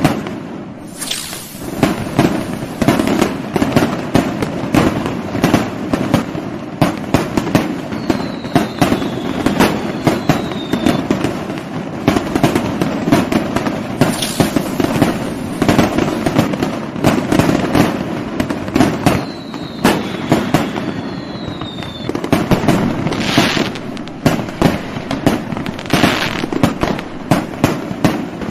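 Fireworks: a dense, unbroken barrage of firecracker crackles and bangs. Twice near the middle, a pair of short falling whistles sounds through it.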